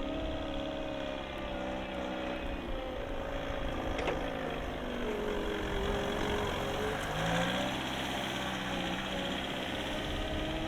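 Jungheinrich DFG 425s forklift's Volkswagen diesel engine running; its pitch drops about five seconds in and rises again a couple of seconds later. A single sharp click comes about four seconds in.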